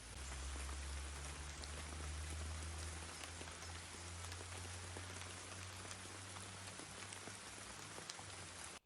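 Steady rain falling, a continuous hiss with scattered drops ticking on nearby surfaces, over a low steady hum. The sound cuts off abruptly near the end.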